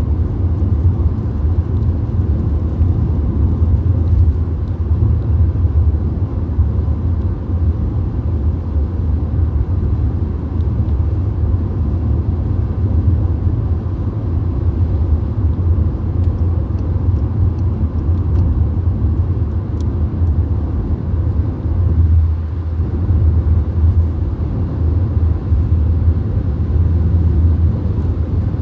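Steady low rumble of a Volkswagen Golf cruising on a motorway, heard from inside the cabin: tyre, road and engine noise with no change in speed.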